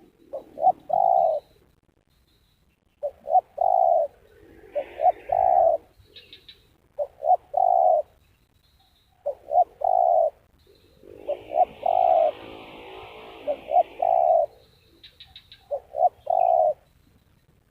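Spotted doves cooing: low coo phrases of a few short notes and a longer note, repeated every couple of seconds.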